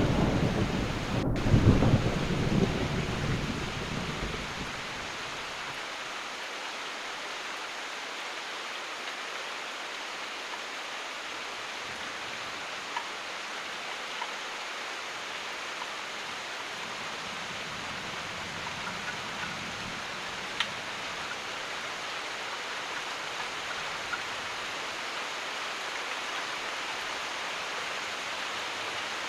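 Thunder rumbling and dying away over the first few seconds, then steady heavy rain with a few sharper drops falling now and then.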